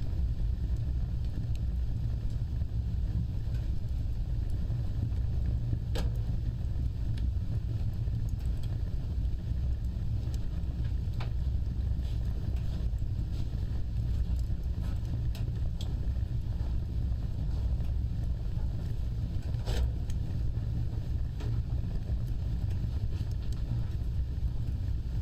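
Fire burning with a steady low rumble of flames and a few scattered sharp crackles and pops.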